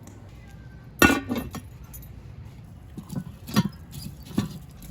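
Clinking and clanking of camp cooking gear: one sharp clank about a second in, then several lighter clinks.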